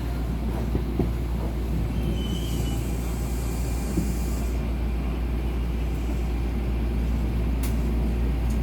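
Electric commuter train running, heard from inside the carriage: a steady low rumble with a few light knocks and a stretch of high hiss about two to four seconds in.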